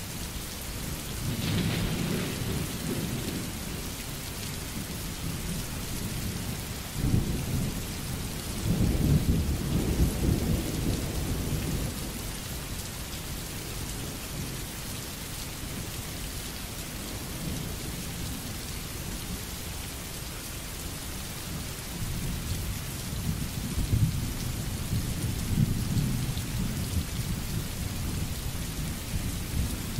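Steady rain falling, with low rolls of thunder: a short one about a second in, a longer, louder one from about seven to twelve seconds in, and more rumbling through the last several seconds.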